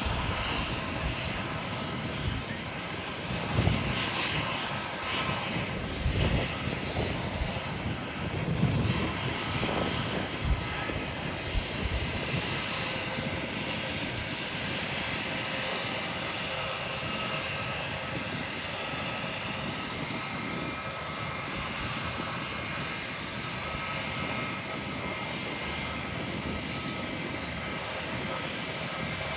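Jet airliner engine noise: a steady broad rush with a faint high whine, and irregular low rumbling surges in the first half.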